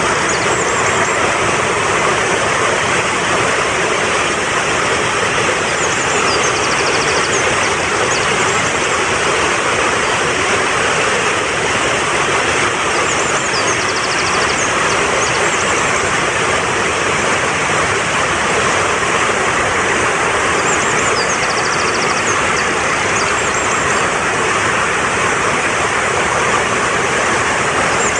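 Fast-flowing mountain stream rushing steadily over rocks. A short burst of high bird chirps and trills recurs about every six or seven seconds above the water.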